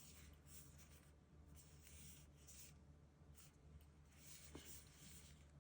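Faint rustling and rubbing from something being handled, in short irregular bursts with a longer stretch about four seconds in, over a low steady hum.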